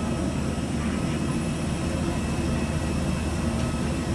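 Steady drone of an airplane's engines and airflow heard inside the passenger cabin, low and even throughout.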